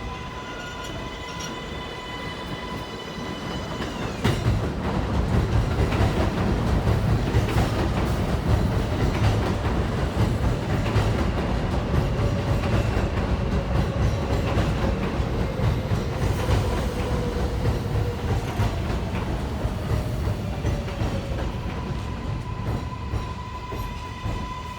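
Kawasaki R188 subway train running through the station: a loud rumble with wheel clatter on the rails that builds about four seconds in and eases near the end, with a faint whine slowly falling in pitch in the middle.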